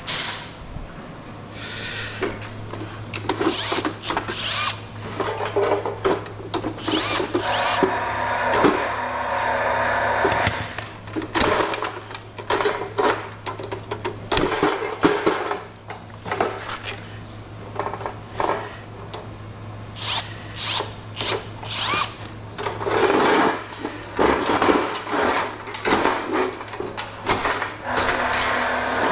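Power drill running in short bursts, removing screws while an air conditioner is taken apart for scrap, mixed with many sharp metal clanks and knocks from the parts being handled. A steady low hum runs underneath.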